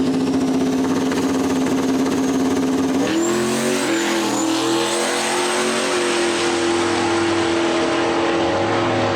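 Turbocharged LS V8 engine in a Datsun 240z running hard at steady high revs, with a high whine over it. The pitch steps up about three seconds in and then holds.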